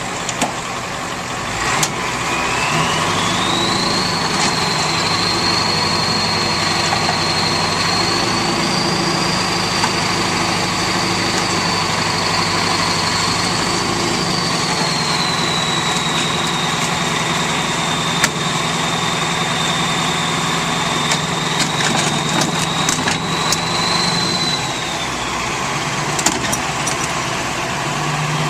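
Motor vehicle engine running, picking up speed about two and a half seconds in and holding steady, then easing off near the end, with a high whine that rises and falls along with it.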